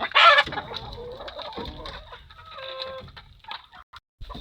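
A flock of young chickens clucking and calling, with a loud cry in the first half-second and a drawn-out call about two and a half seconds in, over a faint steady high peeping.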